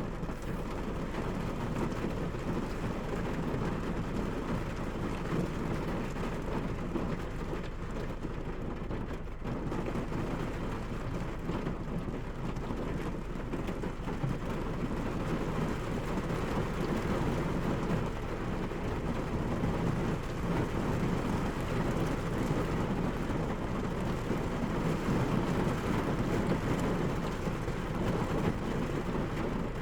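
Steady rain falling, an even, unbroken wash of noise weighted toward a low rumble.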